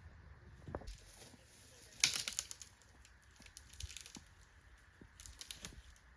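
Dry twigs crackling and snapping in quick clusters of sharp clicks, the loudest about two seconds in and another run just past five seconds.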